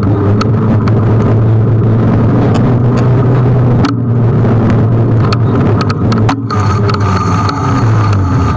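Steady wind and road rumble from riding an electric scooter, with scattered sharp knocks and rattles from bumps in the surface. A faint high whine joins in for the last couple of seconds.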